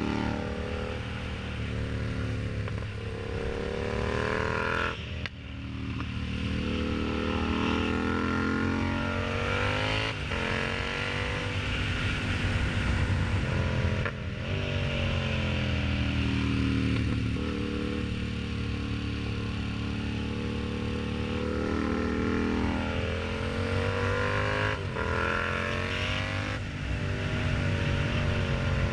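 Yamaha MT-07's 689 cc parallel-twin engine through an aftermarket exhaust, being ridden. The engine note climbs in pitch repeatedly, with short sharp dips at gear changes about 5, 10, 14 and 25 seconds in.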